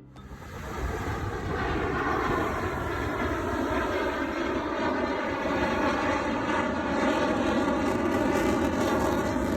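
Fighter jet flying past: loud engine noise with a whine of several steady tones, building over the first second and then holding.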